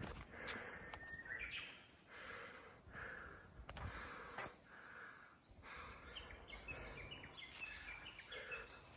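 Faint birds chirping: a rising whistle early, then a quick run of short stepped notes between about six and eight and a half seconds in. A few light knocks and a steady outdoor hiss sit underneath.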